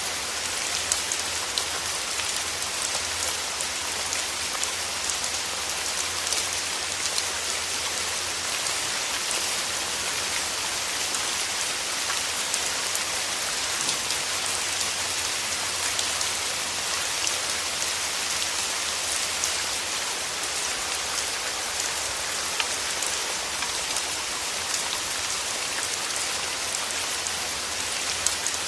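Steady rain: a dense, even hiss with many individual drop ticks, holding unchanged throughout.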